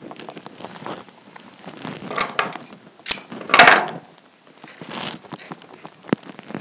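Hands working floral materials in a tin container: rustling with a few sharp clinks and knocks, loudest in a cluster about two to four seconds in.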